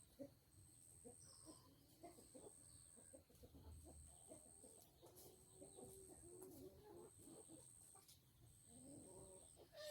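Faint clucking of chickens, with a thin high-pitched tone repeating in roughly one-second pulses behind it and a sharp click at the very end.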